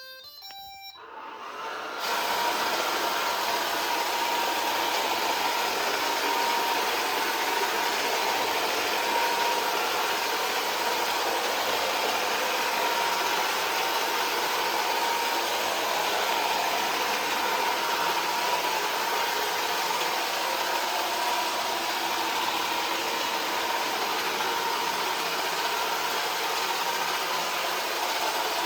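iRobot Roomba 440 robot vacuum running: its vacuum and brush motors start about two seconds in and then run at a steady level with a constant hum.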